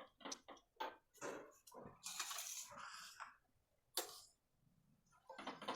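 Stirring turmeric into warm oil and melted wax in a small pan with a stick: scattered scrapes and taps against the pan, with a longer scrape about two seconds in and a sharp tap about four seconds in.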